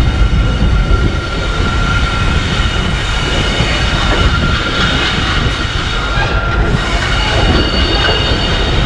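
Passenger train coach running on the rails, heard from an open doorway: a steady rumble of the wheels and track with a high, steady wheel squeal over it.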